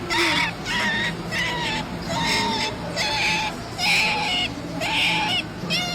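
An animal calling over and over in short, pitched calls, roughly two a second.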